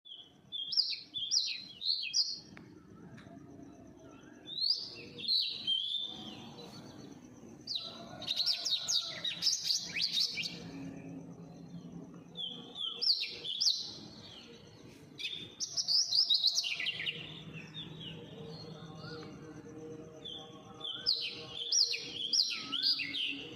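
A bird singing in repeated bursts of quick, high chirps and warbles, each burst lasting a second or two and returning every few seconds.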